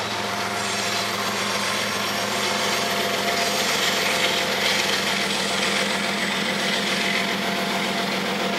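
Freight train rolling past: a steady rushing and grinding of steel wheels on rail over a low engine hum, with faint thin squeals.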